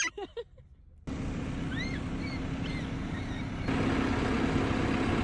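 Tractor engine running steadily with a constant low hum, starting suddenly about a second in and getting louder about three and a half seconds in.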